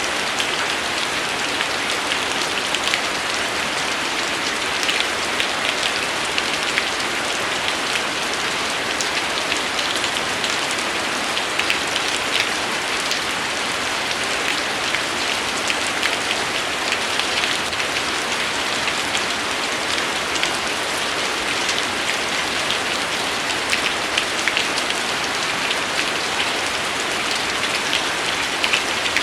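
Steady rainfall, an even hiss with many distinct drop ticks spattering on a surface.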